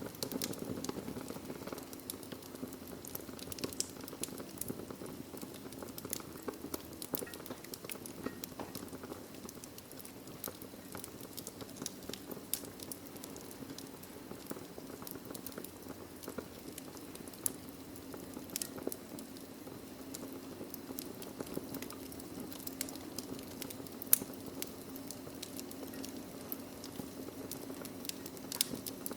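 Wood fire burning in a fireplace: a steady low rush of flame with irregular sharp crackles and pops from the burning logs, one louder pop near the end.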